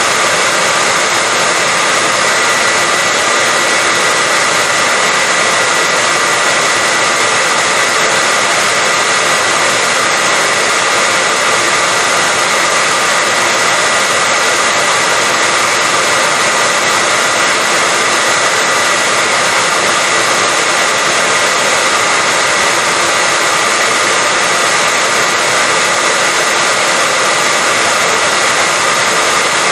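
Hair dryer running steadily: a loud, even blowing hiss with a faint high whine from the motor, unchanging throughout.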